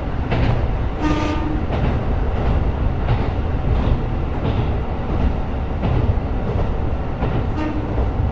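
KiHa 125 diesel railcar heard from inside while running: steady low engine and wheel rumble with clacks over the rail joints. Brief pitched tones sound about a second in and again near the end.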